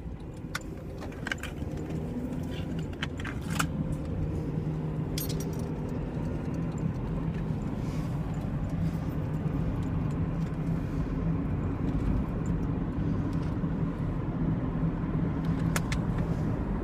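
Car engine and road noise heard from inside the cabin, the engine note rising over the first several seconds as the car gets under way, then running steadily. A few sharp light clicks and rattles in the first few seconds and again near the end.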